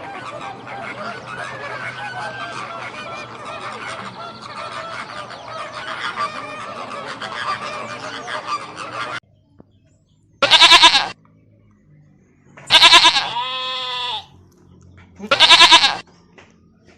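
A flock of fowl calling over one another, cutting off suddenly about nine seconds in. After a short pause come three loud, separate goat bleats, spaced about two and a half seconds apart.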